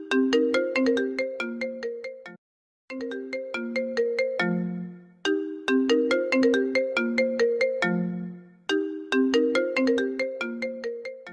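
Apple ringtone playing on a loop: a phrase of quick, bright struck notes that repeats, with a short silent gap about two and a half seconds in.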